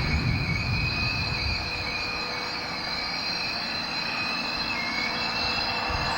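Train rolling past, its low rumble easing after about two seconds.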